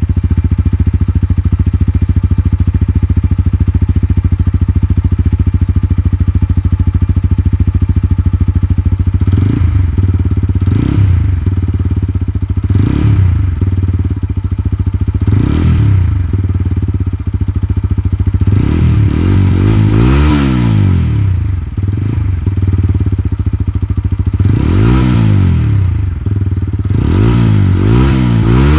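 TVS Apache RTR 160 4V motorcycle's single-cylinder engine idling steadily through its redesigned stock exhaust. It is then revved in about four short throttle blips a couple of seconds apart, followed by longer runs of repeated revving in the second half.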